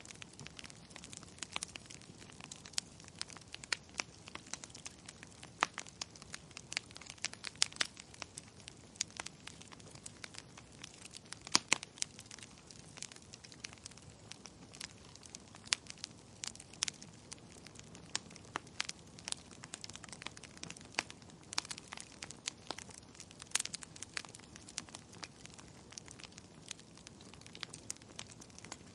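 Wood fire in a fireplace crackling, with irregular sharp pops over a soft steady hiss.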